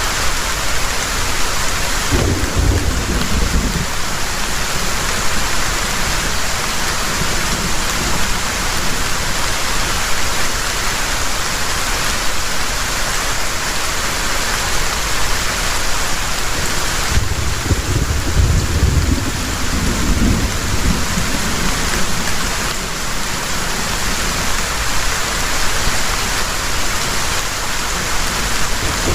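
Heavy rain falling steadily, with two low rumbles of thunder: a short one about two seconds in and a longer one about two-thirds of the way through.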